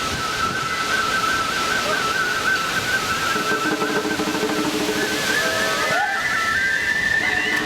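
Japanese transverse bamboo flute (fue) playing an ornamented lion-dance festival melody, with lower held tones joining about three seconds in, over heavy wind noise on the microphone.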